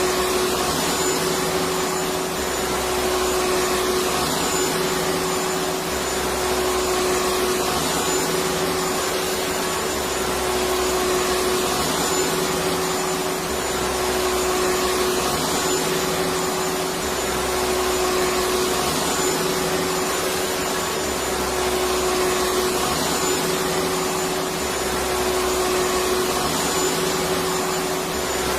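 Electric vacuum cleaner running steadily: an even rushing of air with a constant motor hum, and a low rumble that swells and fades about every three and a half seconds.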